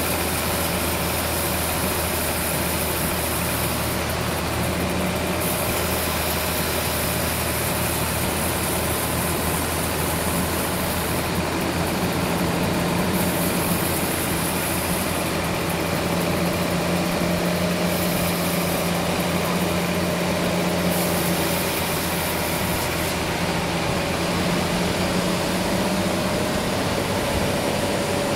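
Sawmill machinery running steadily: a continuous engine-like drone with a held whine that drifts slightly in pitch, and high hiss coming and going in stretches.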